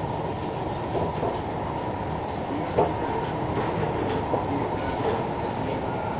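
Siemens C651 metro train running: a steady rumble with a few sharp knocks.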